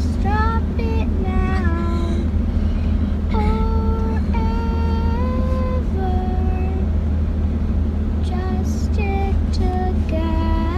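A high voice singing held, gliding notes over a steady low engine drone.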